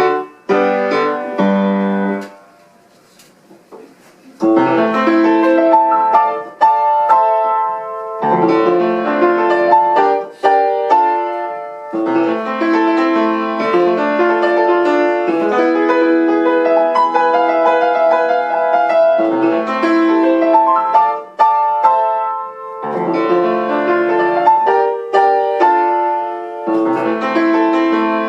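Solo piano playing a classical-style beginner's piece, with a short break of about two seconds near the start before the playing resumes.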